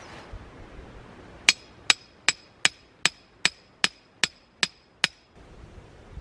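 A hammer driving a metal tent peg into the ground: ten sharp, evenly spaced blows, about two and a half a second, each with a short metallic ring.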